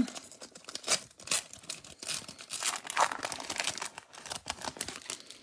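Foil wrapper of a baseball card pack crinkling and rustling in irregular crackles as the pack is opened and the cards are pulled out.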